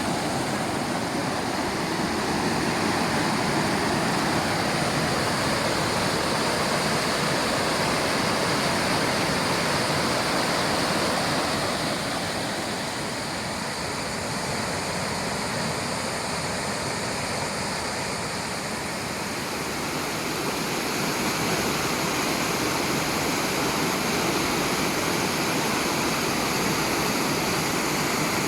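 Waterfall: a steady, dense rush of falling water, slightly quieter for a few seconds in the middle.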